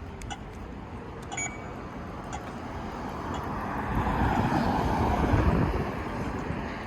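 A motor vehicle passes along the street: its noise builds over a few seconds, peaks, then eases slightly.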